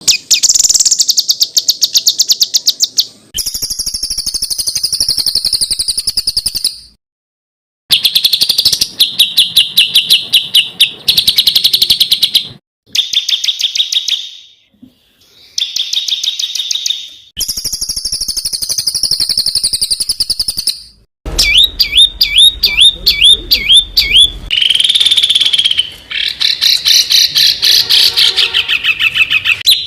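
Songs of small songbirds spliced back to back: each clip is a fast run of rapidly repeated high notes, the rough rapid-fire 'tembakan' phrases used on bird-song training tapes. The clips start and stop abruptly, with short silent gaps between several of them.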